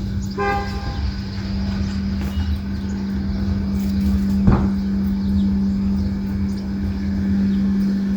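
A steady low mechanical hum with a rumble underneath, like a nearby engine running. A short pitched toot comes about half a second in, and a single sharp click about four and a half seconds in.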